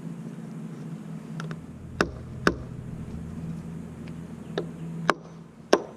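Sharp knocks from work on a wooden frame: two loud ones half a second apart about two seconds in, two more near the end, and a couple of fainter taps, over a steady low hum.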